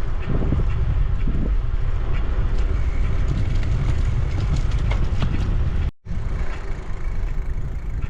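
Wind rumbling on the microphone of a moving bicycle, over the hiss of tyres rolling on pavement. The sound drops out for an instant about six seconds in.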